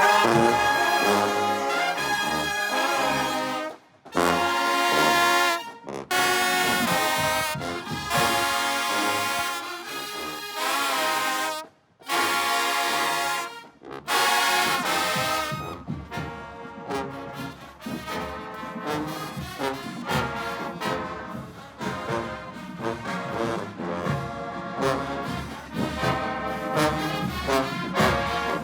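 Marching band brass section (trombones and trumpets) playing loud, held phrases broken by abrupt short stops, then playing more softly from about halfway through.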